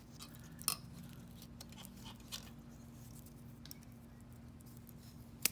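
Faint clicks and small rattles from handling a set of metal feeler gauge blades, the two sharpest clicks about a second in and near the end. A steady low hum runs underneath.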